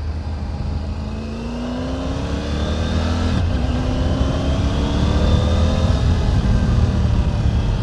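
Triumph Tiger 900 GT Pro's three-cylinder engine accelerating: the engine note rises, drops sharply about three and a half seconds in as it shifts up a gear, then climbs again and levels off, over a steady low rumble of wind and road.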